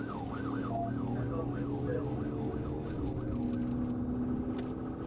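Police car siren on a fast yelp, its pitch sweeping up and down about three times a second and fading out about three seconds in, over the steady running of a car engine at high speed.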